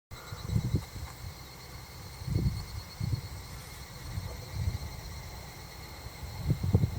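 Evening insects trilling steadily in several high, even tones, with an irregular low rumble coming and going underneath.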